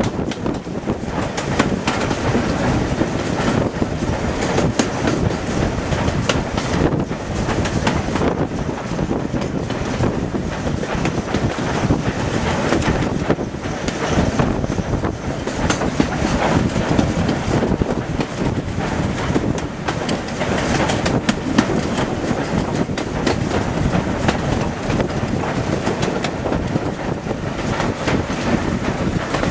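Steam train hauled by Somerset & Dorset 7F 2-8-0 locomotive 53808 running downhill: a steady rush of wheels and running gear, with clattering over the rail joints.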